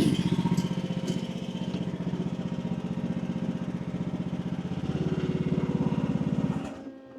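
Engine of an AGT WH12R mini excavator running at low RPM while its hydraulics are worked at 2700 psi, with a steady pulsing note that strengthens about five seconds in. Near the end it cuts out suddenly: the engine stalls under the hydraulic load at low RPM.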